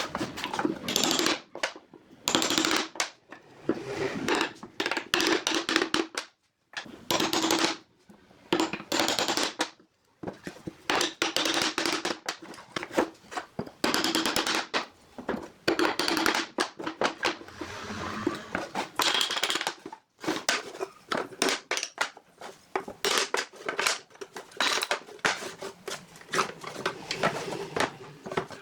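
Irregular tapping, knocking and short scraping noises of hand work on wood, in quick clusters with short pauses between them.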